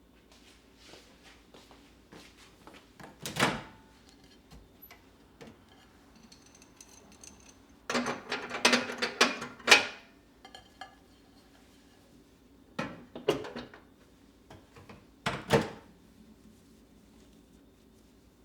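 Household handling sounds while cleaning a kitchen: a single knock about three seconds in, a burst of clattering knocks around eight to ten seconds, then a few more knocks near the end.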